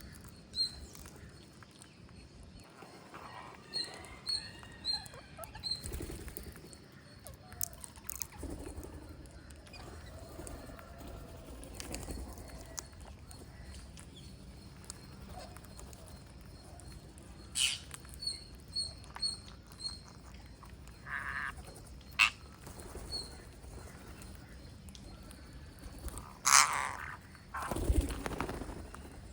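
Green parrots chirping: short high chirps in quick runs of three or four, with a few harsher squawks and one louder call near the end.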